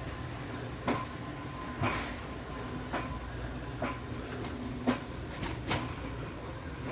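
A series of short knocks and clatters, roughly one a second, over a steady low hum.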